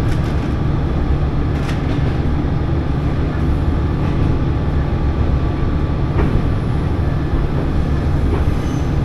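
Diesel railcar running along the line: a steady low rumble of engine and wheels, with a few faint clicks from the rails.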